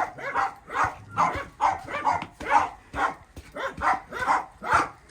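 Dog barking repeatedly, about two barks a second.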